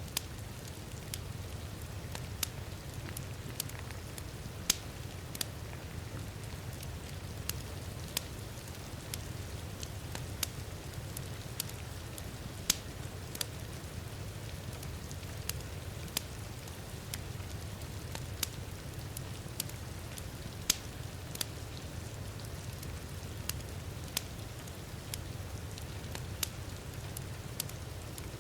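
Wood fire crackling, with sharp pops at irregular intervals, a few of them louder, over a steady hiss of rain and a low, even rumble.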